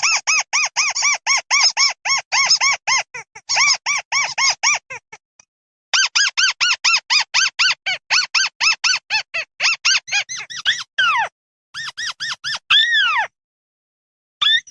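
Recorded flock-calling of the bird known in Vietnamese as mắt xéo, played as a lure: fast runs of short, arched, squeaky notes, about four or five a second. There is a break about five seconds in, and a few longer falling calls near the end.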